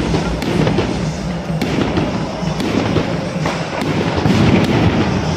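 Aerial fireworks bursting overhead: a rapid, irregular series of sharp bangs and crackles over a continuous din.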